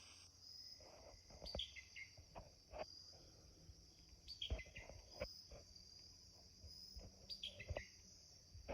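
Faint, steady high-pitched chorus of evening insects such as crickets. Over it come a few groups of short falling chirps and scattered soft thumps.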